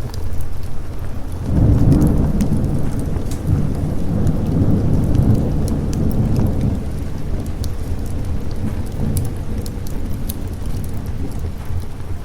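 Thunderstorm with steady rain and a long roll of thunder that swells about a second and a half in and fades after about seven seconds, with scattered sharp crackles.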